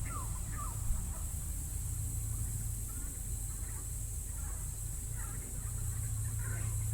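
Birds calling in short, quick notes that slide downward, several in the first second and fainter calls after, over a steady low hum.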